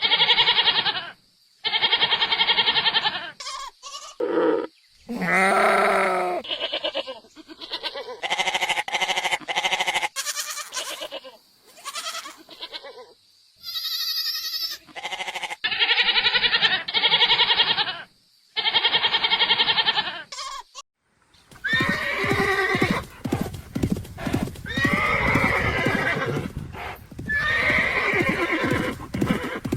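A run of separate calls from different farm animals, each a second or two long with short gaps. About two-thirds of the way through the recording changes to a horse whinnying over quick clopping hoofbeats.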